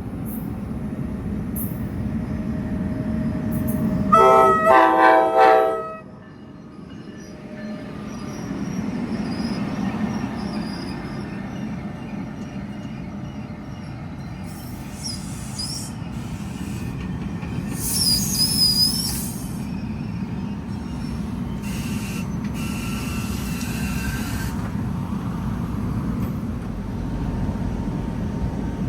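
NJ Transit train running by with a steady low rumble. Its horn sounds about four seconds in for nearly two seconds and cuts off suddenly, and high-pitched wheel squeals come twice later on.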